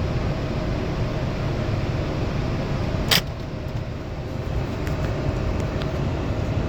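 Automatic car wash machinery running steadily, a dense mechanical and rushing noise, with one sharp click about three seconds in.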